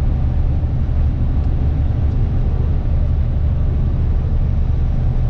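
Tractor-trailer's diesel engine and tyre noise heard inside the cab while driving at highway speed: a steady low drone.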